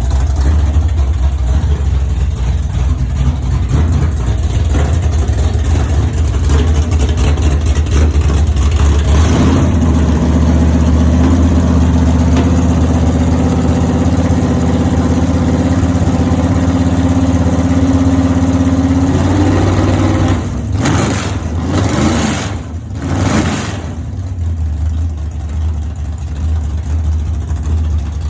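Cammed 496 cubic-inch big-block V8 running loud on its first start-up. It idles, then is held at a higher steady speed from about a third of the way in, then takes three quick throttle blips and settles back to idle.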